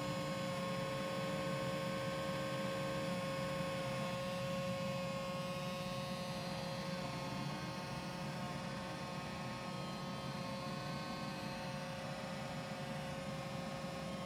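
Roomba j7+ robot vacuum running: a steady motor hum with a constant whine above it.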